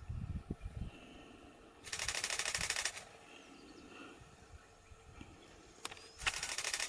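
Camera shutter firing in continuous bursts: two runs of rapid clicking about a second long each, the first about two seconds in and the second near the end.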